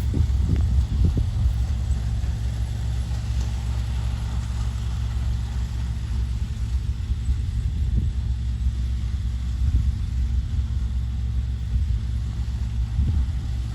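A heavy diesel engine runs steadily with a deep, even hum, and a few low thumps and knocks come and go.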